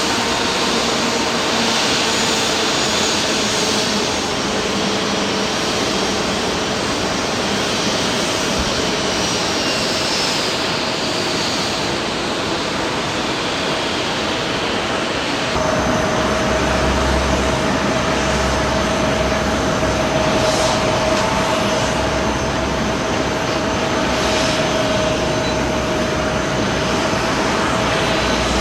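Jet airliner engines: a steady rushing noise with a high whine that falls slowly in pitch over about ten seconds. About halfway through the sound changes suddenly to a deeper rumble with a steady hum.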